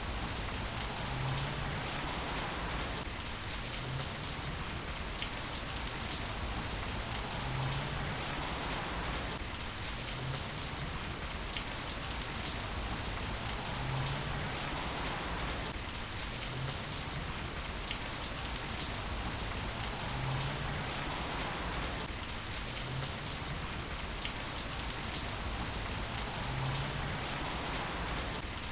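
Heavy rain falling steadily, an even hiss with scattered sharp drop ticks. The same few seconds of rain repeat about every six seconds, as from a looped recording.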